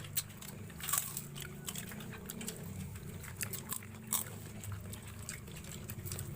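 Close-miked eating: a person biting and chewing satay, with many small wet clicks and smacks and a couple of sharper clicks about a second in and about four seconds in.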